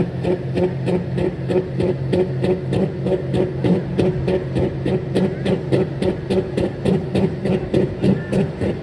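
Diesel pulling truck's engine running hard at high revs under load, with an even pulsing about three times a second.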